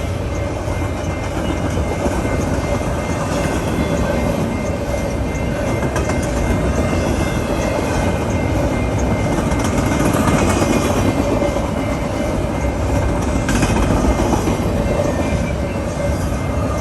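Train rolling past on the track: a steady, loud rumble of rail cars with faint clicking from the wheels.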